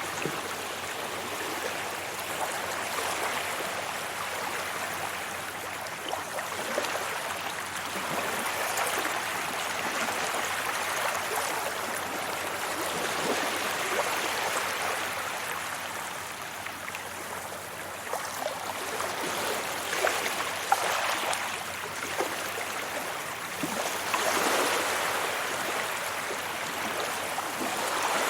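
Small waves washing onto a beach: a continuous wash of surf that swells and eases every few seconds, with a light fizz of breaking foam.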